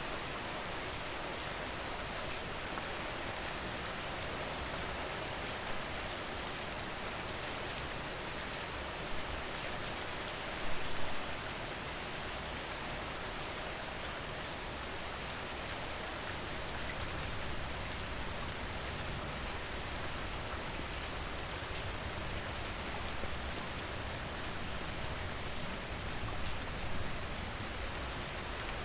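Steady rain falling and pattering on surfaces, a dense even hiss with individual drops spattering, and a brief louder splash about eleven seconds in.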